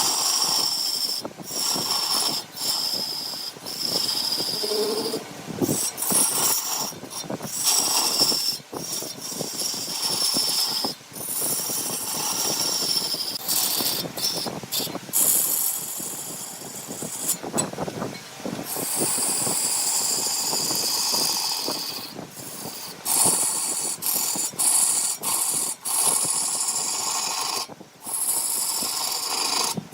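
Wood lathe spinning a workpiece while a hand-held turning tool cuts into the wood, giving a steady high hiss over the machine's running noise. The sound breaks off and restarts abruptly many times.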